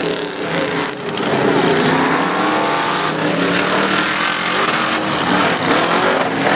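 A 4x4 mud-bog truck's engine revving hard, its pitch rising and falling as the throttle is worked.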